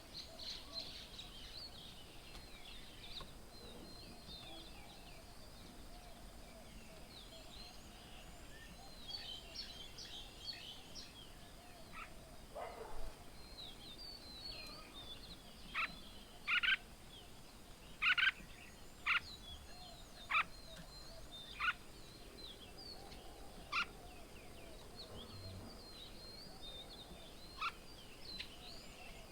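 Several birds calling and chirping around a bird table. Many quick, high chirps come first, then a run of about eight loud, sharp calls spaced roughly a second apart in the second half.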